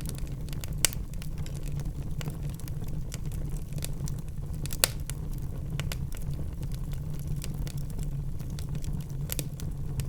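Wood fire burning in a fireplace, crackling continuously over a low steady rumble of flames, with sharp louder pops about a second in, about five seconds in and near the end.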